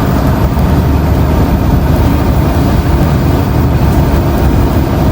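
Steady engine and road noise inside a semi-truck's cab, a loud, even low drone with no breaks.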